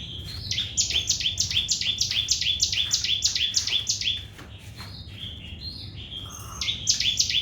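Sogon bird singing its fast 'trotol' song: a rapid run of repeated high notes, each falling in pitch, about four a second. The run breaks off about four seconds in for a few softer calls, then starts again near the end.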